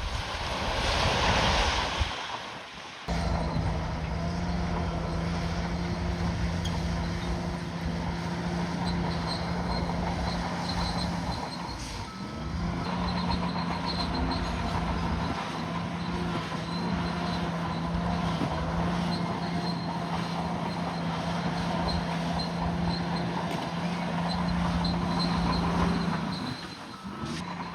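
A bulldozer's diesel engine running at a steady speed, with an even, unchanging hum. It dips briefly about twelve seconds in. The hum follows a couple of seconds of loud rushing noise that cuts off suddenly.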